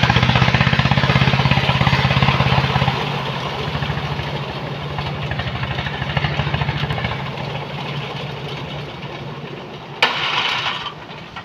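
An engine running steadily with an even firing beat, loudest for the first three seconds and then easing to a lower level. A short burst of noise comes about ten seconds in.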